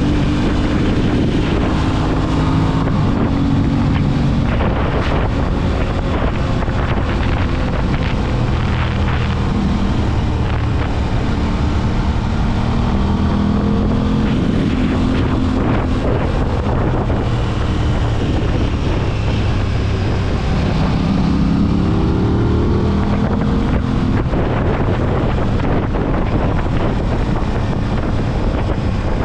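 Aprilia RS 660's parallel-twin engine accelerating and backing off, its pitch climbing and dropping several times, with wind buffeting the microphone.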